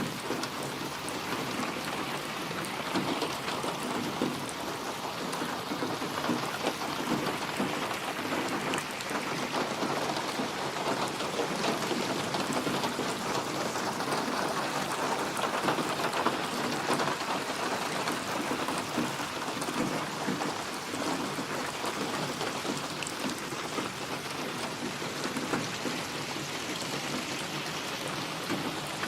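Steady rain falling in a dense, even patter that swells a little louder in the middle.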